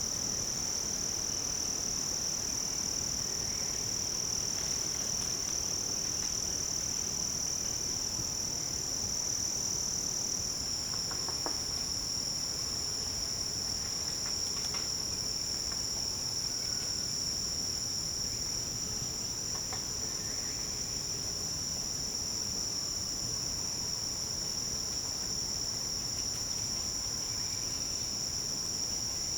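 Forest insect chorus: a continuous high-pitched drone whose pitch drops slightly about ten seconds in.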